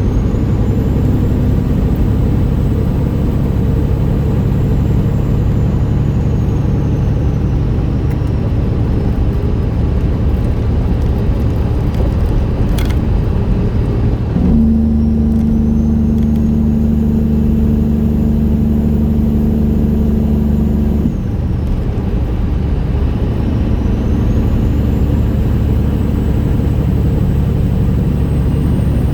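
1999 Peterbilt 379's straight-piped Detroit Series 60 inline-six diesel running loud and steady on the road. About halfway through, the exhaust note changes to a stronger, steadier tone for some six seconds, then drops back.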